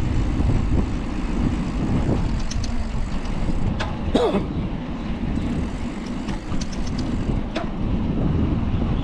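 Riding a bicycle on a city street: a steady low rumble of wind on the microphone and road noise, with a few light rattling clicks and a short squeak about four seconds in.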